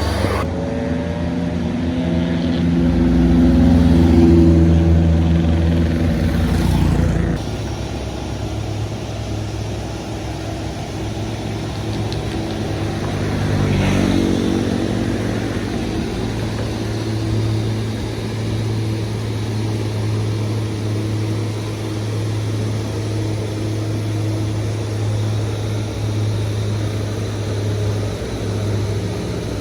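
Heavy vehicle engines running. One grows louder under throttle, peaks about four seconds in and drops away suddenly about seven seconds in, then a steady engine drone continues.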